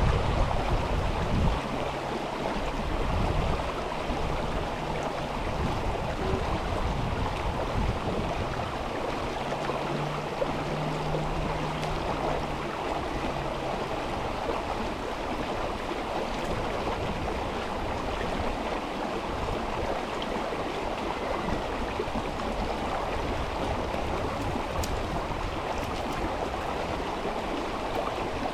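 Mountain river flowing, a steady rush of water. A low rumble of wind on the microphone fades out about a second and a half in.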